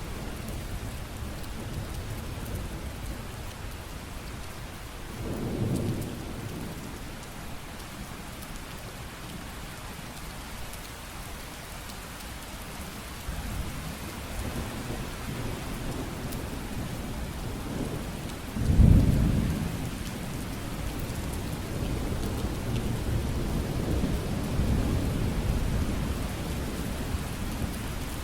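Steady heavy rain with thunder. A rumble swells about five seconds in, a sudden loud thunderclap comes about two-thirds of the way through, and lower rolling rumbles follow near the end.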